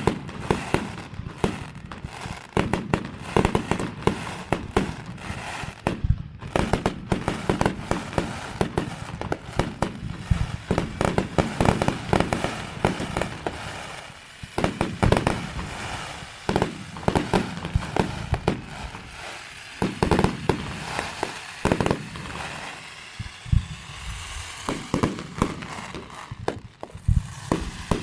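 Fireworks display: a rapid, continuous barrage of shells bursting with sharp bangs. Near the end the bangs thin out into a dense crackling.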